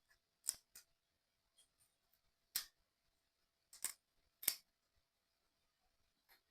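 Small 3D puzzle kit parts being handled, making about five sharp, separate clicks and snips at irregular intervals.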